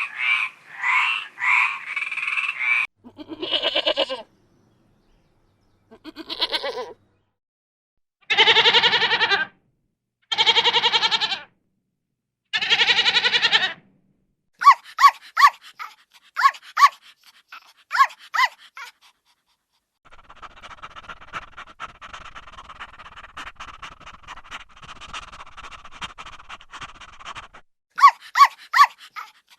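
A string of different animal calls in turn. Quick pulsing frog croaks in the first few seconds, then three long drawn-out calls of about a second each, then bursts of dog barking, which come back near the end after a noisier stretch.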